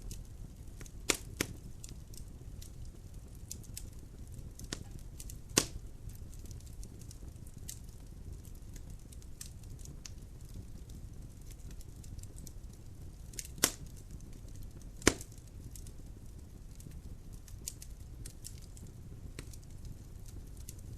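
Logs burning in a fireplace: a steady low fire noise with scattered small crackles and a handful of sharp, louder pops.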